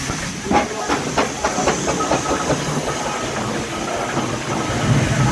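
Steam traction engine working, its exhaust beating sharply about three times a second over a steady hiss of steam; the beats fade after the first couple of seconds and a low rumble grows near the end.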